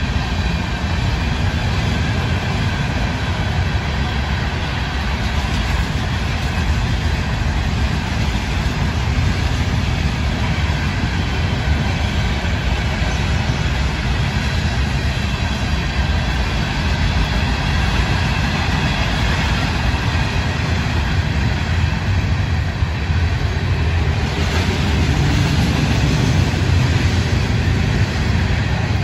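Florida East Coast Railway freight train's cars rolling past: a steady, heavy rumble of steel wheels on the rails, a little louder near the end.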